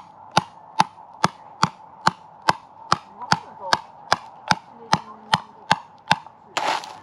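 Steady, evenly spaced hammer blows, about two and a half a second.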